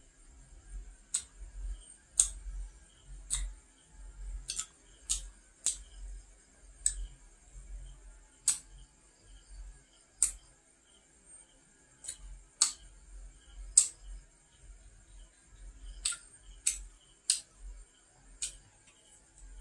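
Close-miked eating sounds of a fried pastry being chewed: sharp crisp clicks and mouth smacks at irregular intervals, about one a second, over soft low chewing thumps.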